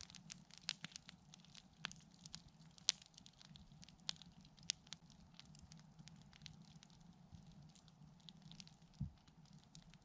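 Wood campfire crackling faintly, with irregular sharp pops, the loudest about three seconds in, over a faint steady low hum.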